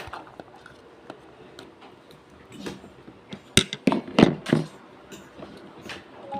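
Light clicks and clinks of cutlery against a plate while eating palabok noodles, with one sharp click about three and a half seconds in.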